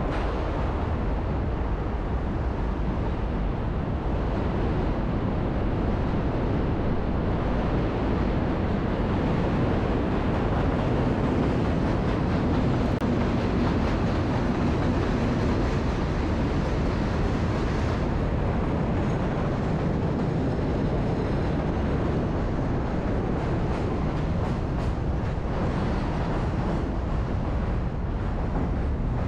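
A loud, steady rumble with no break, heaviest in the low end, of the kind heard from rolling traffic or rail vehicles.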